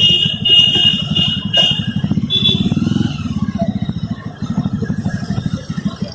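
Jawa Standard's 293cc liquid-cooled single-cylinder engine running as the motorcycle is ridden, with a steady rapid low pulsing. A high-pitched intermittent tone sounds over the first three seconds.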